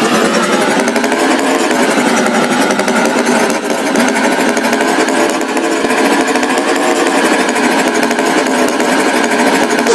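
Motor running with a fast, steady rattle.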